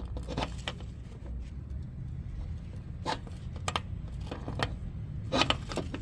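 Scattered light metallic clicks and clinks of brake parts and hand tools being handled, about six in all with a small cluster near the end, over a steady low hum.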